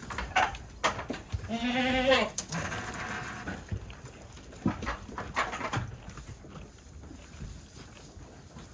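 A goat bleats: one long, wavering call about two seconds in, with shorter, fainter sounds before and after it.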